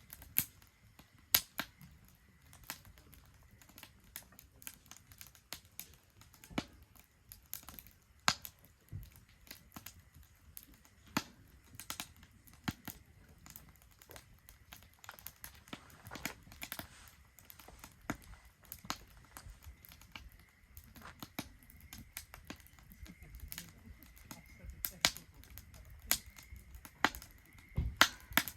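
Wood fire burning in a Solo Stove Ranger stainless steel fire pit, crackling with irregular sharp pops over a low rumble. A faint steady high tone sits under it.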